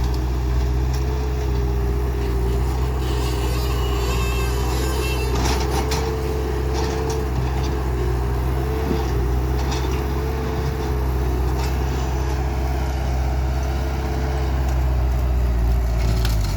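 Skid steer loader's engine running steadily at working speed with a whine above it, and a few short knocks now and then.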